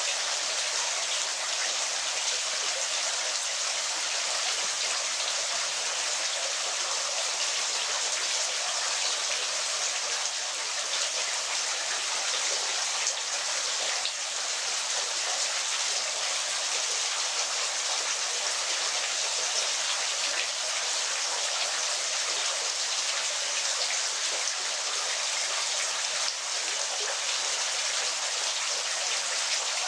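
Waterfall: water falling and splashing in an even, unbroken hiss with little low rumble.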